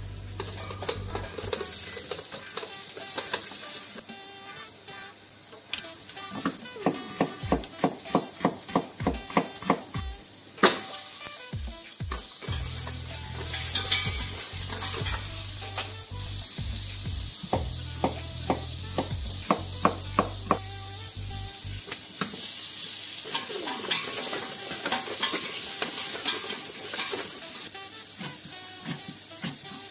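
Sliced burdock and carrot sizzling in oil in a stainless steel pan and being stirred, broken by runs of knife chopping on a wooden cutting board at about three strokes a second, and a single loud knock about ten seconds in.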